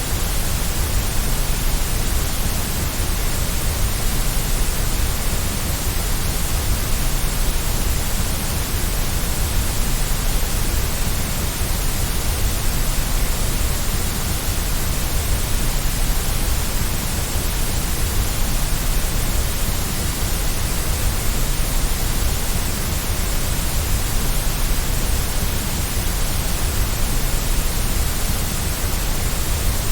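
Steady white noise: an even, unbroken hiss with a deep rumble beneath it.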